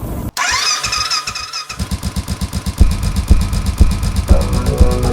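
Single-cylinder motorcycle engine running, its exhaust beating in loud, even pulses that strengthen about three seconds in.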